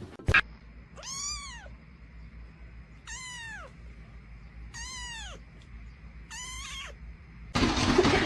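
A cat meowing four times, each meow rising then falling in pitch and spaced about two seconds apart. A loud, even noise cuts in near the end.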